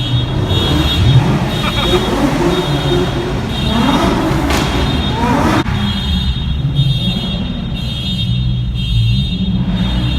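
Car engines running and revving, with a steady high-pitched alarm tone sounding over them. An engine revs up with rising pitch about four seconds in, and the loudest engine noise cuts off suddenly just past halfway.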